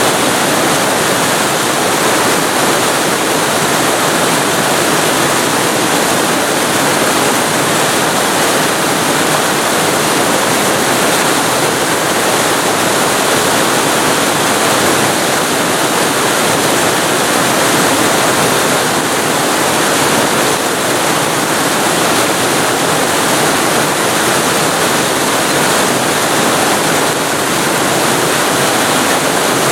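Waterfall recorded very close to the falling water: a loud, steady, dense rush of water that doesn't vary.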